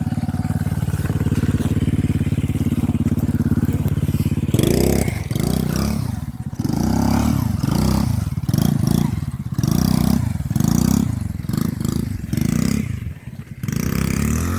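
Quad bike engine running steadily for about four and a half seconds, then revved up and down in repeated bursts about once a second, with some scraping and clatter.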